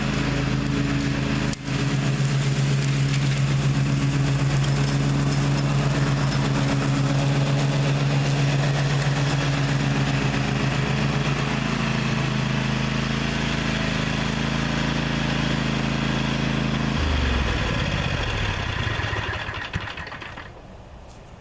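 Gravely ZTx 42 zero-turn mower's engine running steadily. About seventeen seconds in, its pitch falls and the engine winds down and fades out over a few seconds.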